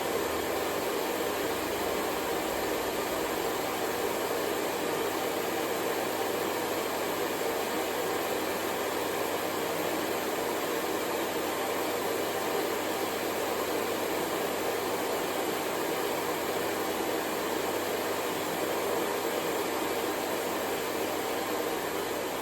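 Hair dryer running steadily: an even, unbroken blowing hiss with a faint motor hum under it.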